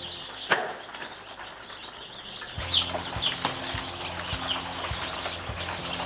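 Young chicks peeping: short, high, falling cheeps that start about two and a half seconds in and repeat every half second or so. A sharp click comes about half a second in.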